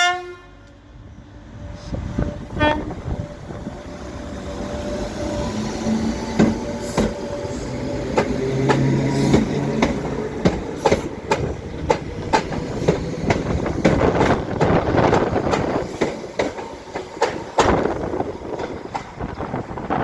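Southern class 313 electric multiple unit pulling away: the end of a horn blast at the very start and a brief second horn note a few seconds in, then wheels clicking over rail joints, getting louder as the train passes.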